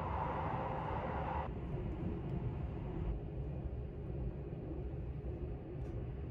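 Steady low rumble of the Sunrise Seto sleeper train running on the rails, heard from inside the carriage as it crosses a steel truss bridge. The higher hiss drops away abruptly about a second and a half in.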